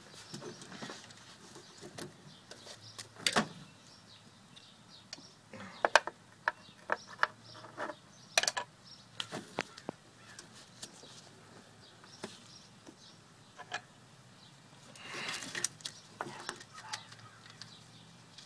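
Scattered sharp metallic clicks and knocks, with a burst of rustling handling noise near the end, from a socket and extension and parts being handled in an engine bay while a new PCV valve is fitted. The clicks come irregularly, with no steady ratchet rhythm.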